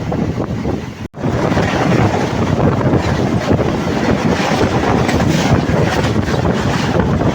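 Loud rushing and rumbling of an Indian Railways train passing the level crossing close by, with wind buffeting the microphone. The sound cuts out for an instant about a second in, then carries on slightly louder.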